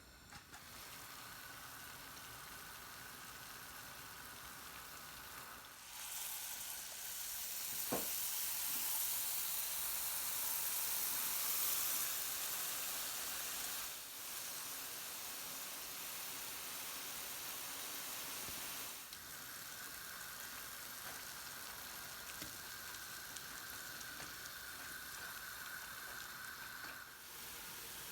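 Jalebi batter sizzling as it deep-fries in hot oil, louder from about six seconds in to about fourteen seconds in. A single sharp click comes about eight seconds in.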